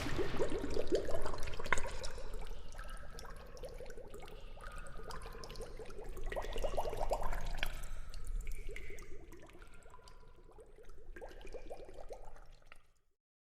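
Water splashing and dripping around the rider after a water-slide run, with many small splashes and drips. The sound stops abruptly near the end.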